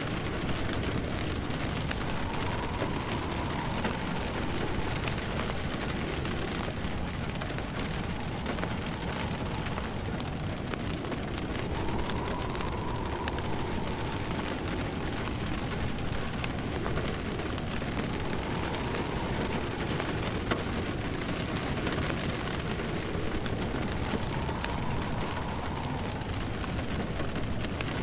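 Steady rain hissing and pattering, layered with the crackle and small pops of a log fire. A soft howl of wind rises and falls every few seconds.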